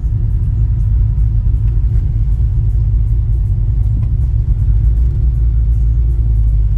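Steady, deep rumble of a truck on the move, heard from inside the cab.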